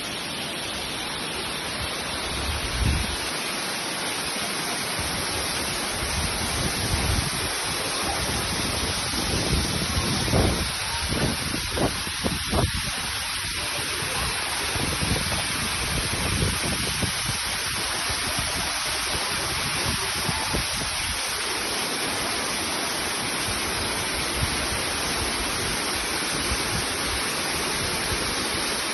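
Waterfall: a steady, unbroken rush of falling water, with irregular low rumbles through the middle stretch.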